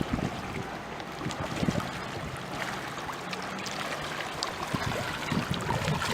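Water trickling and lapping around a kayak, with scattered light ticks and drips.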